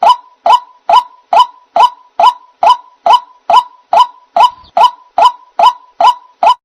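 White-breasted waterhen calling: a short, identical note repeated in a steady rhythm, about two and a half times a second. This is the ruak-ruak lure call used to draw waterhens to a trap.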